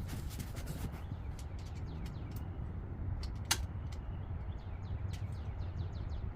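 Small birds chirping repeatedly in short falling calls over a steady low rumble, with one sharp click about three and a half seconds in.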